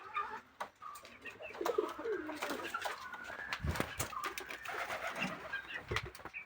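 Birds cooing in low, falling calls, with scattered sharp clicks and two low thumps.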